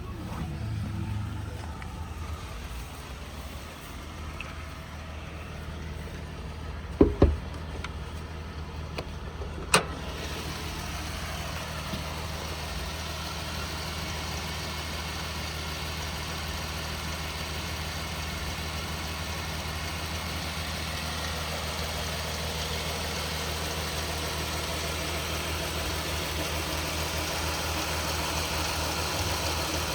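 Dodge Ram 1500 pickup truck's engine idling with a steady low hum. Two sharp knocks come about seven seconds in and a single one near ten seconds, after which a rushing hiss builds over the idle.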